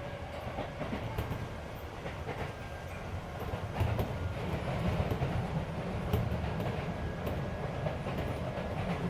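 Running noise inside a Keisei 3400 series electric train car travelling at speed: a steady low rumble of wheels on rail with scattered clicks over the rail joints, growing a little louder a few seconds in. The car's air conditioning is running underneath.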